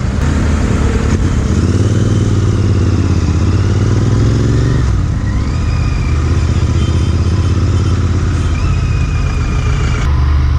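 Royal Enfield Interceptor 650's parallel-twin engine running under way through an aftermarket MotoWings performance exhaust. The note climbs a little over the first few seconds and eases off about five seconds in.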